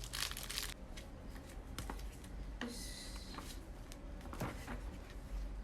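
Plastic snack packets being handled: brief crinkly rustles at the start and again a little before the middle, with scattered light taps and clicks.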